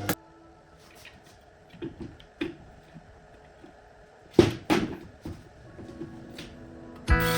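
A handful of short, light knocks and clatters, about five over several seconds with quiet between, the loudest about four seconds in: parts or tools being handled on a workbench. The background music comes back near the end.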